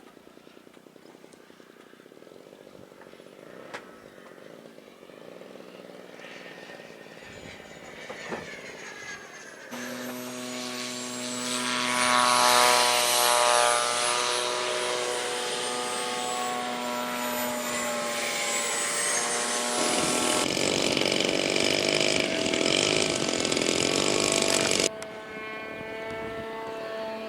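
Radio-controlled model aircraft engines heard in the air across several quick cuts. The sound is faint for the first third, then turns loud and sudden, with a high whine that rises and falls as a model passes.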